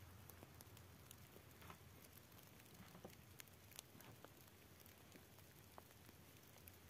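Near silence with faint, irregular ticks and patters over a low steady hum.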